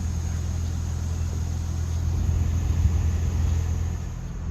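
Steady low outdoor rumble with no distinct events, of the kind left by city traffic or wind on the microphone.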